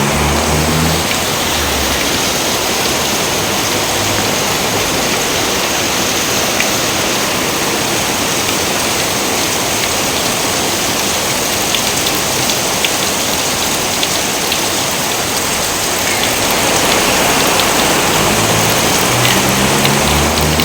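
Steady heavy rain, an even dense hiss, with scattered sharp ticks of single drops in the second half. A low, pitched rumble sounds briefly near the start and again near the end.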